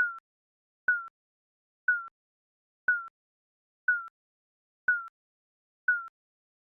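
Digital countdown timer beeping once a second: a short, high electronic beep that dips slightly in pitch, seven in all.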